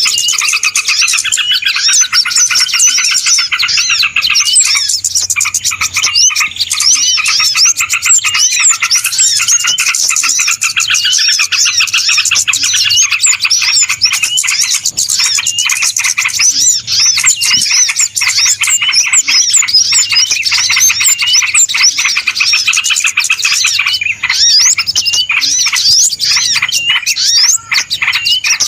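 Dense chorus of many small birds chirping and twittering at once, a continuous busy mass of short, quick calls.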